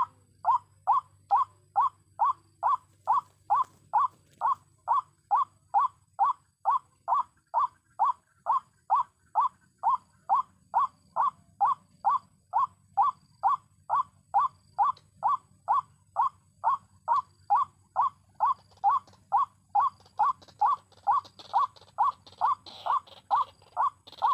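White-breasted waterhen call, a short croaking note repeated very evenly about two and a half times a second.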